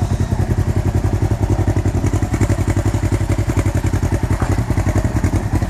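Polaris RZR XP 1000's twin-cylinder engine idling steadily through a Yoshimura aftermarket exhaust, a deep, even, rapid pulsing.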